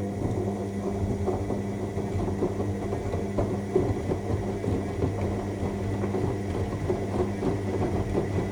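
AEG 7000 Series front-loading washing machine in its main wash: the drum motor hums steadily as the drum turns, with laundry and water churning and sloshing irregularly inside.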